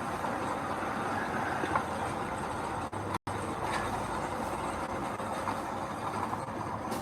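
Heavy earthmoving machinery running steadily. The sound cuts out completely for an instant a little past three seconds.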